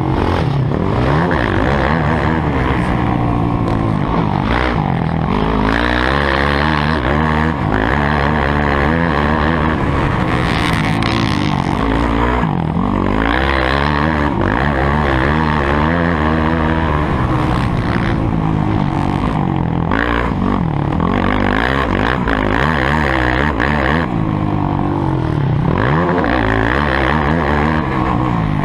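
Motocross dirt-bike engines revving, their pitch rising and falling over and over as they ride, with more than one engine heard at times.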